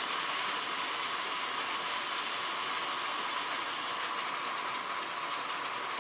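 H0-scale model trains running on the layout, giving a steady, even running noise of small wheels on track and electric motors.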